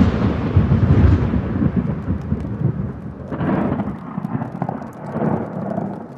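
Thunder from a close lightning strike rolling and rumbling, loudest at first and fading, with fresh rolls swelling about three and five seconds in. Rain is falling underneath.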